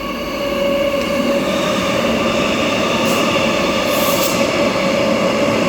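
Electric multiple-unit suburban train running through the station at speed without stopping: a steady rush of wheels on rail with a held whine.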